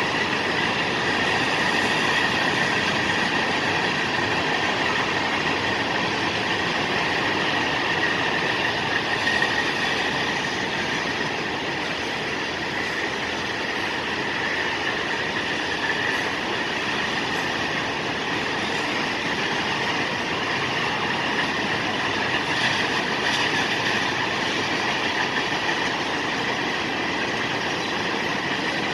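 Freight train cars rolling steadily past on the rails, a continuous rumble and rattle of wheels with a steady high-pitched wheel squeal over it.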